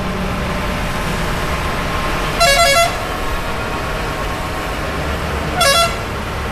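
Vehicle horn sounding two short warbling blasts about three seconds apart, the first a little longer, over the steady low rumble of a running engine.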